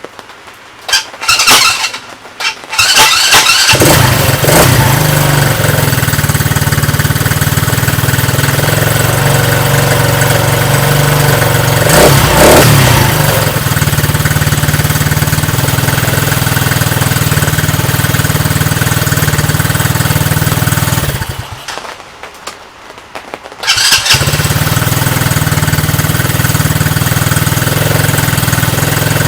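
Coleman Scrambler 125 cc ATV's small single-cylinder four-stroke engine, cranked in a few short bursts, then catching and running steadily, with a brief rev partway through. About two thirds of the way in it stops, then starts again a few seconds later and runs on. It is running on a replacement carburetor, the old one having been ruined by varnished stale fuel.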